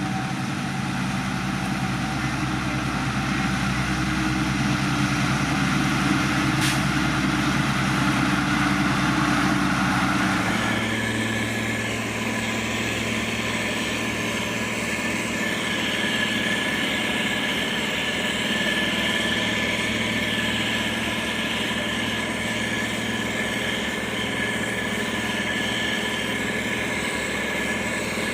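Heavy diesel engine of a motor grader running steadily. About eleven seconds in, the engine note switches abruptly to a different steady pitch.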